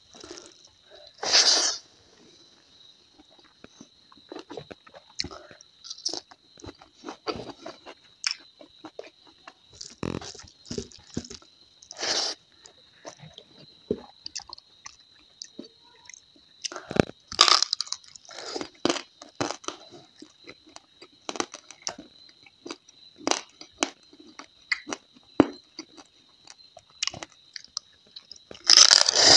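Close-miked chewing and crunching of crab and dried squirrel meat eaten by hand, an irregular run of small crisp crunches and mouth sounds with a few louder bites.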